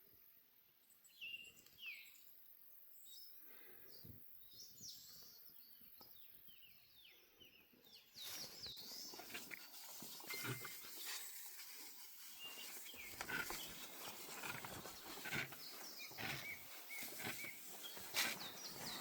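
Birds chirping outdoors with short rising and falling calls. About eight seconds in, a louder rustling, crackling noise with scattered clicks starts and carries on under the bird calls.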